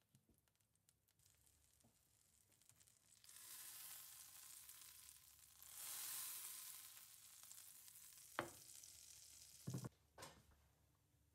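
Food sizzling in a hot pan, the hiss starting about three seconds in, with a sharp click and a couple of knocks near the end.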